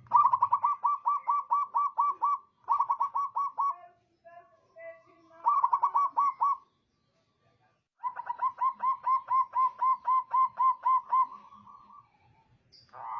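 Zebra dove (perkutut) singing: four phrases of quick, evenly repeated cooing notes at about four a second, with short pauses between them. The last phrase is the longest, about three seconds.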